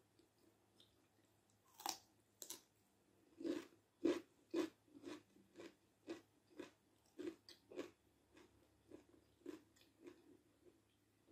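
Close-miked eating: two crisp, crunchy bites about two seconds in, then steady chewing at about two chews a second that slowly grows fainter.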